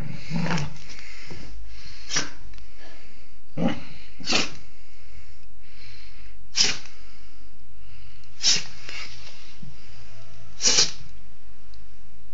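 A dog sneezing over and over: about seven short, sharp sneezes, one every one to two seconds, the last a quick double.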